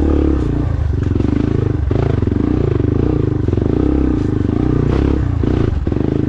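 Dirt bike engine running steadily, the throttle easing off briefly a few times.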